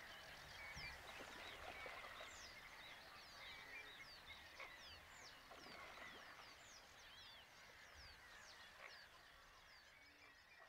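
Faint outdoor chorus of wild birds: many short, sweeping chirps over a soft steady hiss, slowly fading toward the end.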